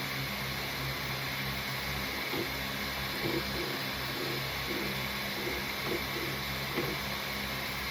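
Steady whirring hum and hiss of a small motor and fan, with faint short blips at irregular intervals.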